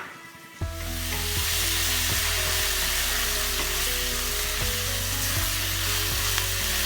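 Ginger garlic paste sizzling in hot oil with onions and green chillies in a kadai. The sizzle starts suddenly about half a second in and then runs steadily.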